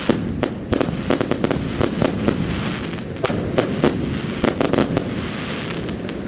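Fireworks display: a dense, irregular run of sharp bangs and crackling reports, several a second, over a continuous rumble of further bursts.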